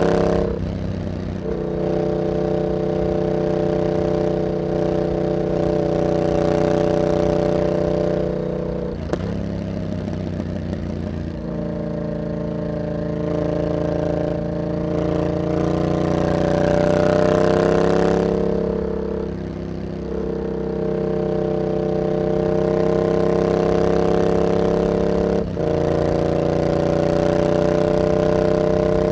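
Yamaha MT-07's parallel-twin engine running through an aftermarket carbon exhaust fitted with a dB killer, heard while riding. The engine note holds steady for long stretches and dips briefly several times as the throttle is eased off and reopened or a gear is changed.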